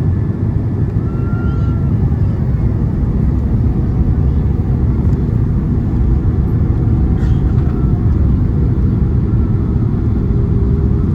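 Steady low rumble of a Boeing 767-300ER's engines and airflow, heard inside the passenger cabin.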